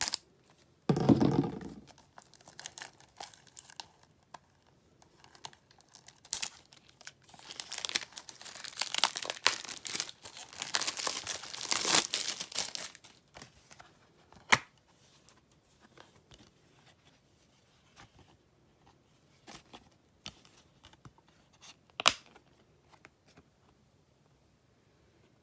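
Plastic shrink-wrap being torn and peeled off Blu-ray cases, crinkling and crackling, loudest in a long stretch in the middle. There is a handling bump about a second in and a few sharp clicks of the cases being handled later on.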